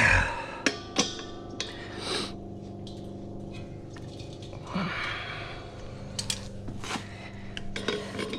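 Clanks and knocks of a propane tank and its metal fittings being handled, with a short hiss about five seconds in, over a steady hum.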